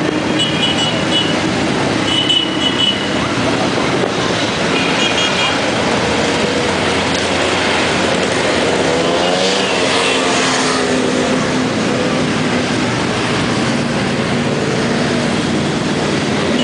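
Motorcycle engines running and revving as a stream of bikes rides past, one passing close with a rise and fall in pitch about halfway through. Three short bursts of high beeping come in the first six seconds.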